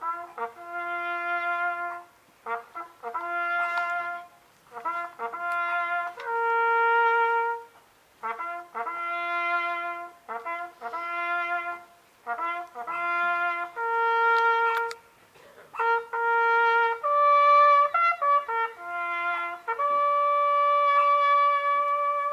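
A brass bugle call of the kind sounded at Remembrance services: phrases of short notes and held notes with brief gaps between them, ending in a long held high note.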